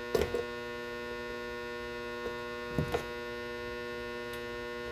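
Steady electrical mains hum, with a few small clicks of metal parts being handled as the cuckoo clock's hand nut is taken off, one just after the start and a couple around three seconds in.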